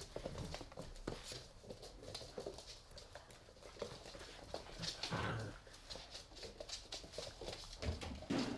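Pit bull puppies playing, with scuffling and many quick taps of paws and claws on the floor, and a louder dog sound about five seconds in and again near the end.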